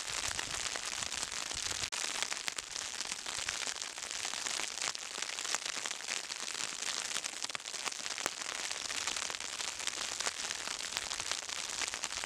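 Falling snow and sleet pattering steadily, a dense crackle of tiny ticks on the microphone and the ground around it.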